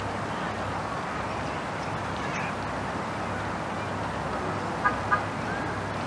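Two short, sharp bird notes close together about five seconds in, over a steady background hiss of outdoor noise.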